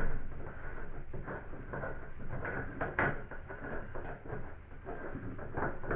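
Irregular metal clicks, knocks and scrapes of an 11/16 wrench working the nut of a bathtub tap, with the sharpest knock about three seconds in.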